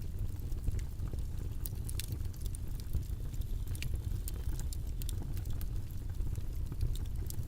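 Steady low, rumbling background noise, with small faint clicks and ticks scattered irregularly over it.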